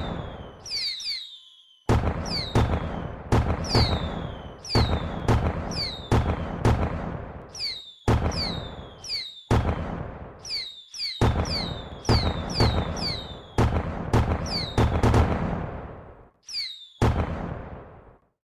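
Fireworks bursting in quick succession, about one or two bangs a second, each bang followed by a short falling whistle. The bangs come in runs broken by short gaps.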